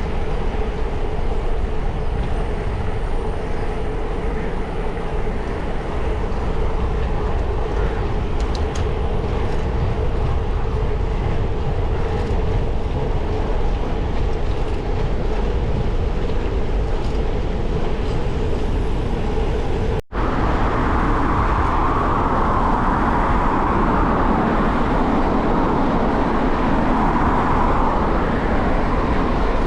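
Steady road and wind rumble from riding a bicycle. The sound drops out for a moment about two-thirds of the way through, then comes back fuller.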